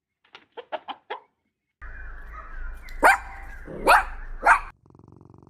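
A quick run of about five short animal calls, then a dog barks three times, loudly.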